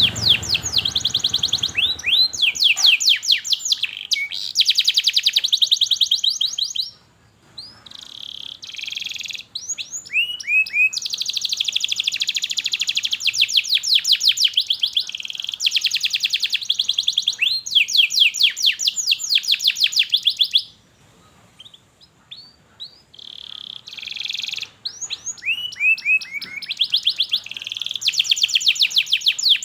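Domestic canary singing: long, fast trills of rapidly repeated notes mixed with short down-sliding chirps, falling quiet briefly twice.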